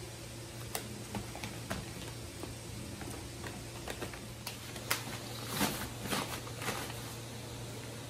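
Brown paper bags rustling and crinkling as green chillies are handled into them, with scattered light clicks and a denser run of crinkles about five to seven seconds in, over a low steady hum.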